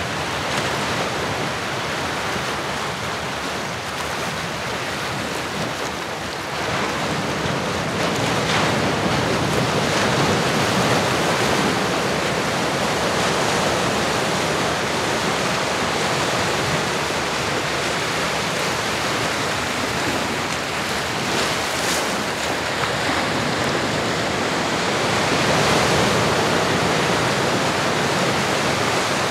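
Ocean surf: a continuous wash of waves breaking and receding, swelling a little louder about seven seconds in.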